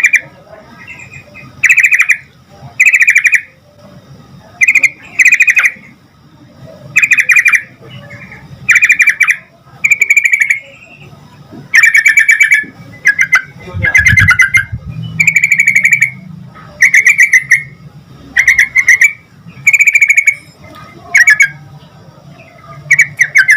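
Sooty-headed bulbul (trucukan) calling over and over: short, bubbling chattering phrases, each under a second long, repeated every one to two seconds.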